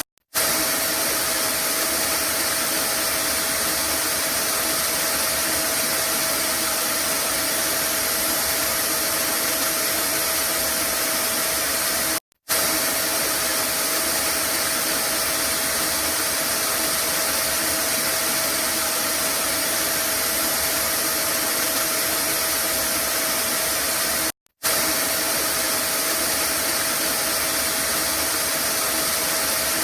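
Vacuum cleaner running steadily, a loud even rushing noise with a faint steady hum tone in it. It cuts out to silence for a split second three times, about every 12 seconds, where the recording loops.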